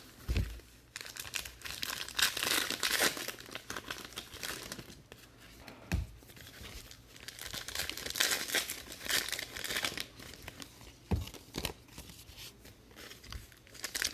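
Trading-card pack wrappers being torn open and crinkled by hand, a steady crackling rustle, with a few dull knocks.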